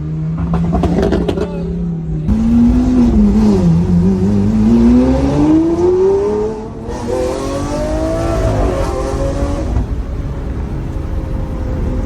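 Lamborghini Aventador SV's V12 through a Capristo exhaust, cruising steadily, then revving up about two seconds in and accelerating with a long rising pitch, an upshift near seven seconds, a second climb, and settling to a steadier cruise near the end.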